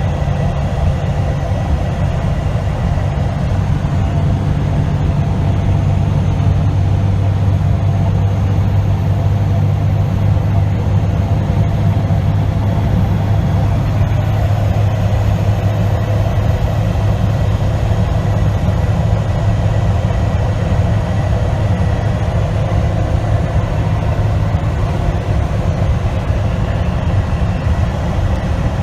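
Semi-truck's diesel engine and road noise while driving, a steady low drone that does not change.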